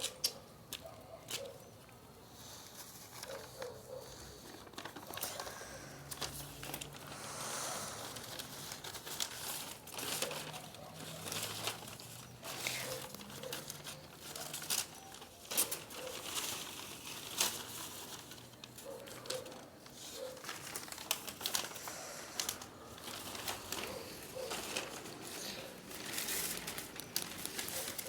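Fire burning and crackling, with irregular sharp pops and snaps over a steady hiss.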